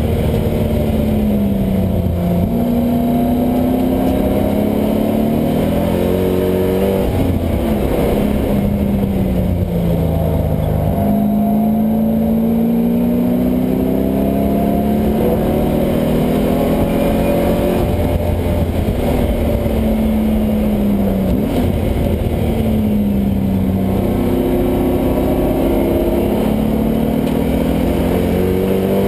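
LS1 V8 engine of a swapped Mazda Miata at full load on track, its pitch climbing and falling again and again as the car accelerates and slows.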